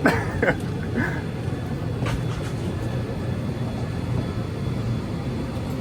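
Steady low drone of a parked airliner during boarding, with a brief voice right at the start and a single click about two seconds in.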